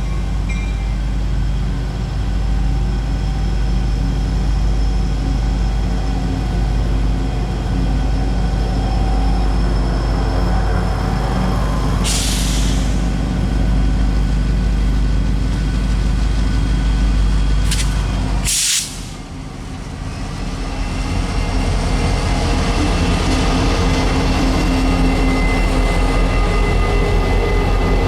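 Freight train led by an EMD SD50-2 diesel locomotive: a steady low engine drone over rail noise, with a short hiss of air about twelve seconds in. About two-thirds through the sound drops suddenly and then builds up again.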